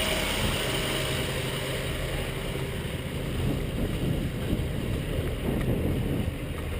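Military truck engine running steadily, with wind buffeting the microphone.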